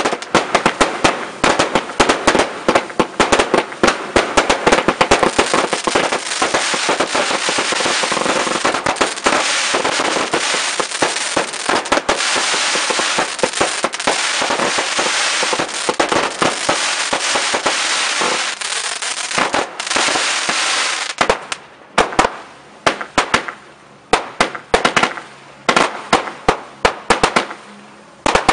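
Fireworks display: a dense barrage of crackling and rapid bangs, thinning at about 21 seconds in to separate loud bangs about twice a second.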